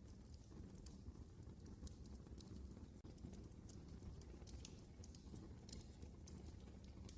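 Wood fire burning in a fireplace, with faint irregular crackles and pops over a low steady rumble.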